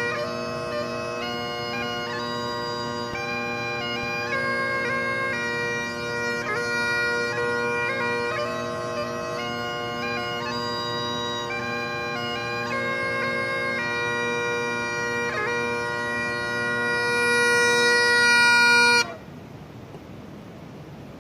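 Highland bagpipes playing a march-style tune over steady drones, the melody ornamented with quick grace notes. It swells louder, then stops abruptly near the end, leaving only faint background.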